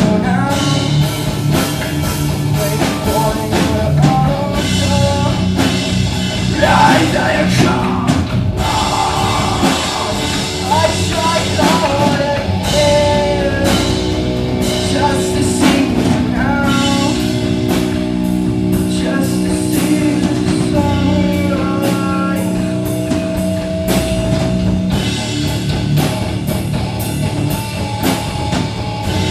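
Live rock band playing with drum kit and electric guitar, with a singer's voice over it.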